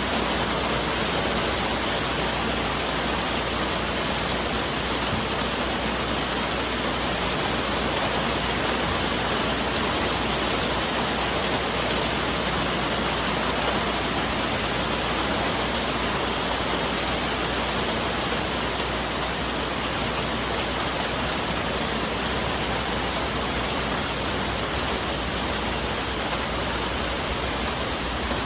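Steady rain falling on forest foliage, an even hiss with no let-up; no thunder in this stretch.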